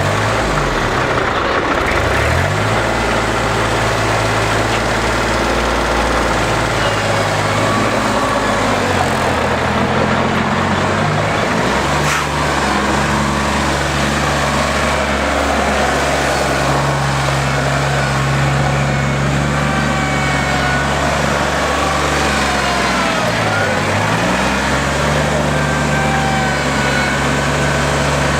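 Kubota L3410 tractor's diesel engine running steadily, its note dipping briefly and picking back up a few times.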